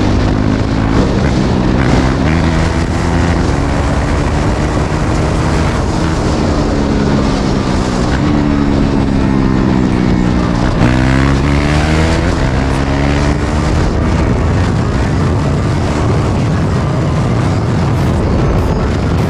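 KTM Duke 390's single-cylinder engine running with its muffler removed, heard while the bike is ridden: the open exhaust is loud, and its pitch climbs and falls several times as the rider accelerates and shifts, with a sharp fall about eleven seconds in.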